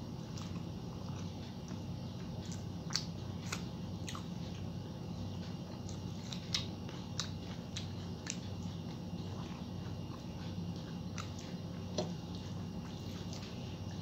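A person chewing a mouthful of rice and vegetables eaten by hand, with scattered sharp clicks and smacks, over a steady low hum.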